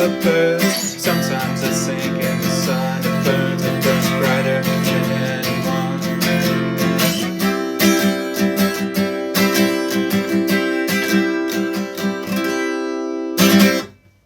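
Acoustic guitar strummed in a steady rhythm as the song's closing instrumental, ending on a last strum that cuts off just before the end.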